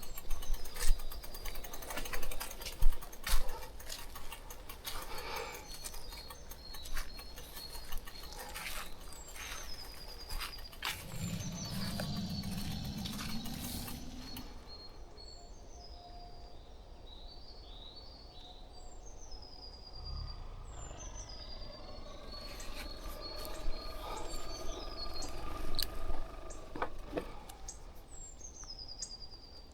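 Birds chirping in woodland, in repeated short falling notes. Crackling and knocking fill the first half, and a low sound rises for a few seconds about halfway through.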